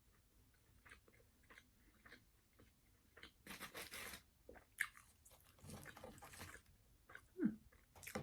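Close-up eating sounds: crunching and chewing on crispy KFC fried chicken. Small mouth clicks come first, then two louder crunchy bites about three and a half and six seconds in, and a brief, sharper mouth sound near the end.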